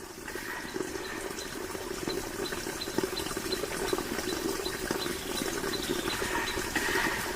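Water running steadily, with faint high ticks repeating about three times a second.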